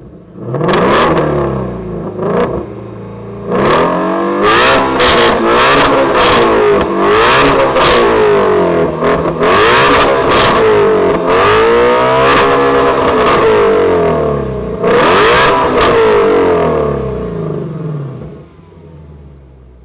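2017 Ford Mustang Shelby GT350's 5.2-litre flat-plane-crank V8 revved repeatedly through its exhaust: a couple of short blips, then a run of high revs rising and falling, a last sharp blip, and the engine settling back to idle near the end. The exhaust still carries its resonators.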